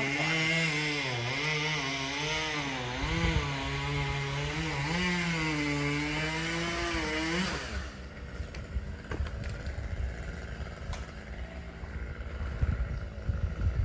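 Chainsaw running, its pitch dipping and rising as it works under load, then cutting off about seven and a half seconds in. Low thuds and rumbling follow.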